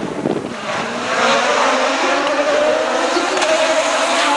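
Hill-climb race car engine accelerating hard under load. It gets louder about a second in, and its pitch climbs steadily as it pulls through a gear.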